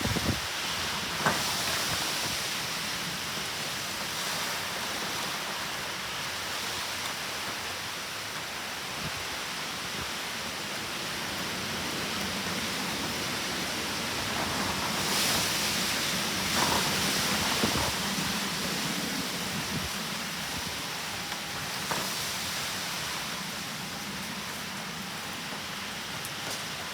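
Steady heavy rain from a typhoon, falling as an even rushing hiss, with a few sharp ticks of drops striking something close by.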